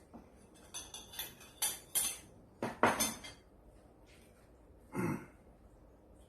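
Eating utensils clinking and scraping against dishes in a quick run of short knocks, followed by one duller, lower knock about five seconds in.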